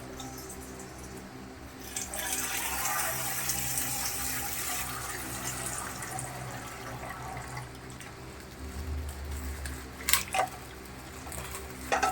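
Water pouring out of a punctured plastic water bag. It starts about two seconds in and slowly trickles off, followed by two sharp clicks near the end.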